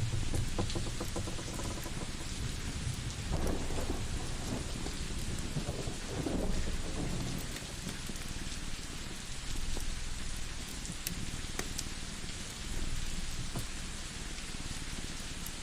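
Steady rain with low, rolling thunder rumble that swells twice, and a few sharp crackles from a wood fire.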